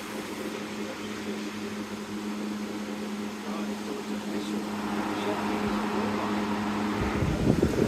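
Holmes box fan running with a steady electric motor hum over a soft rush of air. About seven seconds in, a louder low rumbling noise breaks in and the hum's main tone drops out.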